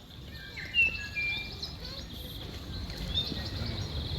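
Birds chirping: many short high peeps and a few longer whistled notes, over a low steady background rumble, with one brief sharp noise about a second in.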